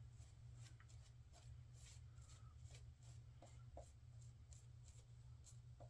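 Near silence: faint, irregular scratching strokes, a razor scraping over stubble, over a steady low hum.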